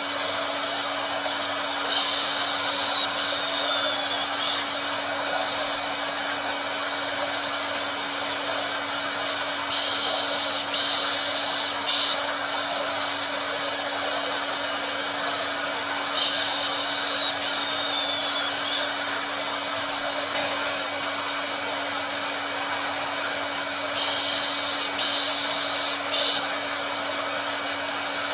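Hair dryer running steadily, a constant whooshing with a low hum, played as white noise to soothe a baby. Brief higher hissing surges come back about every seven or eight seconds.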